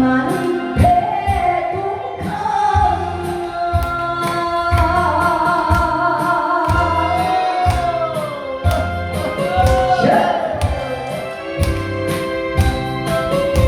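A singer holding long, wavering melodic notes over a backing track with a steady drum beat: a trot-style song in a live pumba stage show.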